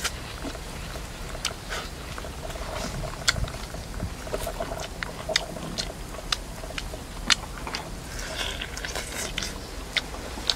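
A person eating grilled pork, chewing and biting with irregular sharp clicks.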